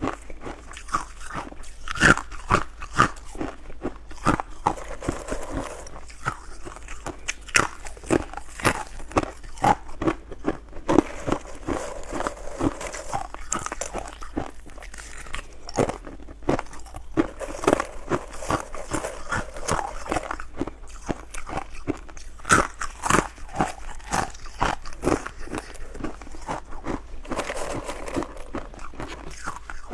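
Ice being bitten and chewed close to the microphone: a steady run of sharp, irregular crunches and cracks.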